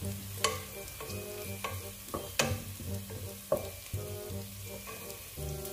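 Garlic and onion sizzling in hot oil in a pan over high heat while being stirred, with a utensil clicking and scraping against the pan several times, the sharpest click about two and a half seconds in.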